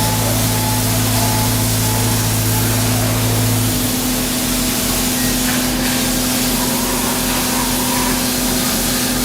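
Heavy machinery running steadily, a constant hum under a hissing noise. About four seconds in, one low hum cuts out and a slow, low throbbing of about two beats a second takes its place.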